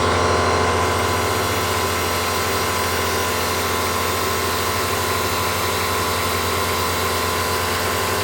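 A shop motor running at a steady pitch, a constant whine with a hissing edge, cutting off abruptly near the end.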